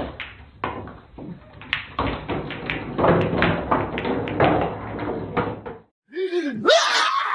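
A door being bumped and rattled: a run of irregular knocks and thumps. They stop shortly before the end, and a different sound with sliding pitch begins.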